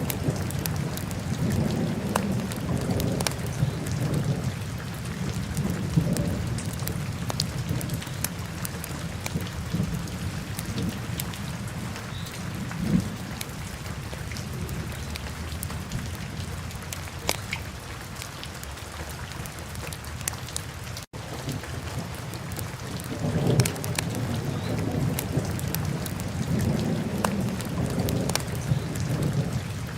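Wood fire burning in a fireplace: a steady low roar that swells and eases, dotted with sharp crackles and pops, with a momentary dropout a little past two thirds of the way through.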